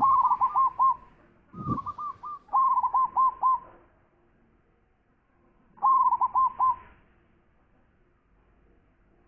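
Zebra dove (perkutut) cooing in four quick, rolling phrases of hooked notes, the last after a pause of about two seconds. A low thud comes with the start of the second phrase.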